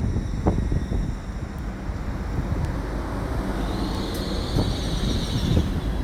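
Passenger train at a station platform, running with a steady low rumble and wind noise on the microphone, with a brief high squeal about four seconds in.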